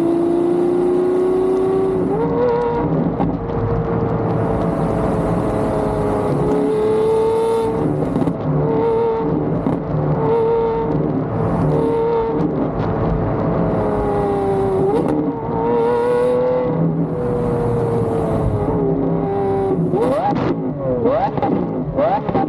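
A car engine running under load while driving: a strong drone rises in pitch over the first two seconds, then holds near one pitch with small dips. After about 20 seconds it revs up and down several times in quick succession.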